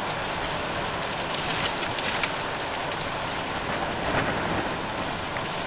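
Heavy rain in a storm: a steady hiss with scattered sharp taps of drops striking close by.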